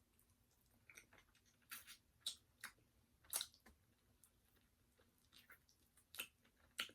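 Close-miked eating sounds: chewing, with short crisp crunches and mouth clicks coming irregularly, several seconds apart.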